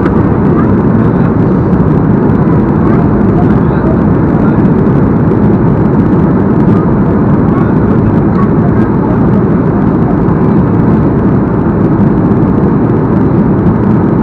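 Steady, loud cabin noise inside a Boeing 737-8 in descent: the rush of air past the fuselage and the hum of its CFM LEAP-1B engines, heard from a window seat as an even low rumble.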